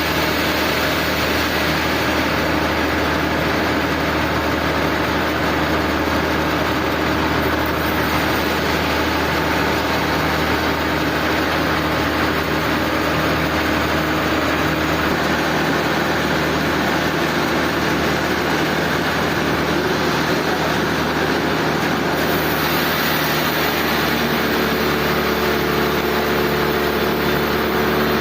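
Sawmill machinery running steadily, a continuous engine-driven drone with a constant noise over it; a few higher steady tones join near the end.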